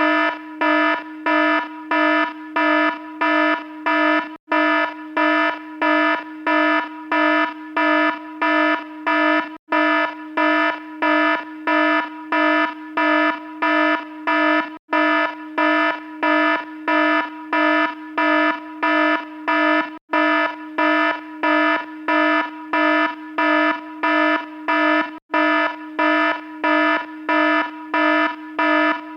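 Electronic alarm sounding: a harsh, buzzy tone pulsing rapidly, about twice a second, with a brief break about every five seconds.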